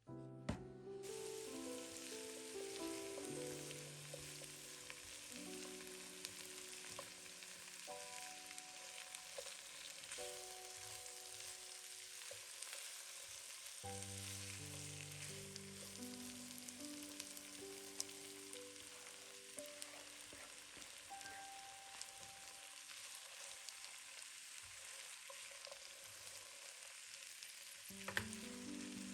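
Food frying in a pan, a steady sizzle starting about a second in, under soft background music, with a single knock near the end.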